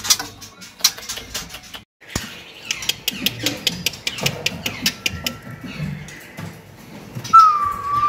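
Caged birds moving about: scattered sharp clicks and taps, then a clear, slightly falling whistle held for about a second near the end.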